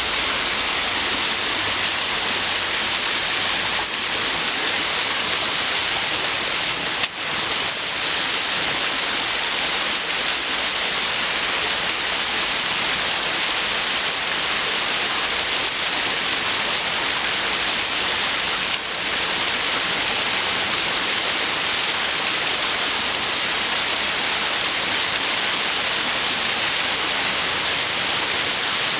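Waterfall: water falling and rushing in a steady roar of white noise.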